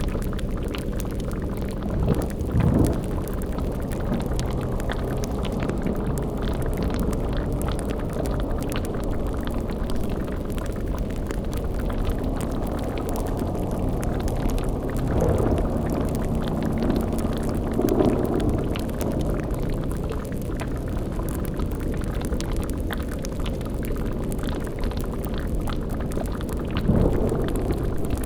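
Layered spooky sound-design ambience: a bubbling cauldron and crackling fire over a low, steady drone. Brief louder surges come about 2, 15, 18 and 27 seconds in.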